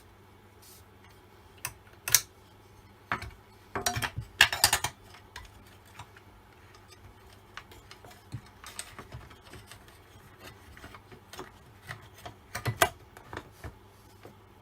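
Small parts of a chainsaw being handled on the bench: scattered clicks, taps and rubbing, with a cluster of sharper knocks about four seconds in and another near the end.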